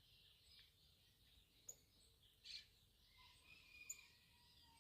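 Near silence with a few faint, scattered bird chirps and thin whistles in the distance.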